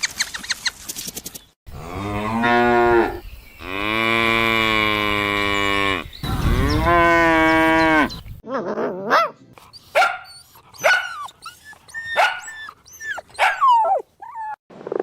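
Cow mooing: three long, loud calls in a row. They are followed by a string of short, high squeaky calls, each falling in pitch.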